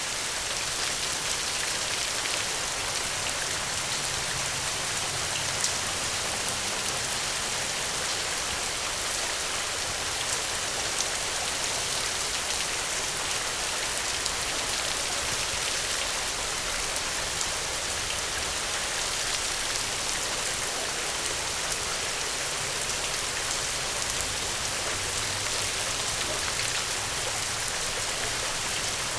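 Steady gentle rain: a continuous even hiss, with scattered sharper raindrop ticks.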